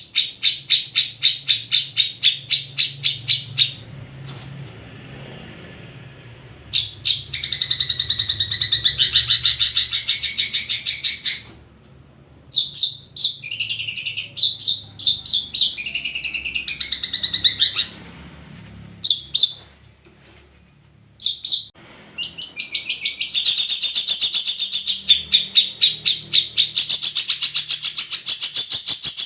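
Long-tailed shrike (cendet) singing: fast runs of repeated sharp notes at about four or five a second, broken by stretches of varied, tumbling warbled phrases and short pauses.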